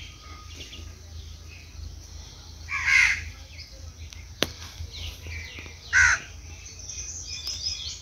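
A bird giving two loud calls about three seconds apart, each about half a second long, with a single sharp click between them.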